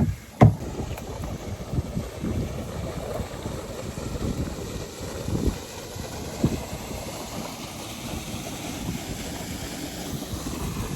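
Wind buffeting the microphone over the rush of a flooded river, with a sharp knock about half a second in and a few softer thumps later.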